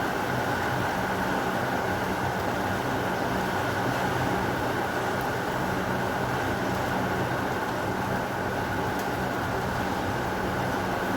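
Heavy rain falling steadily, an even hiss with no thunder and no break.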